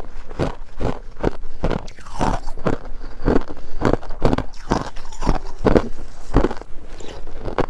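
A person biting and chewing freezer-frost ice set in buckwheat tea: a steady run of crunches, about two a second.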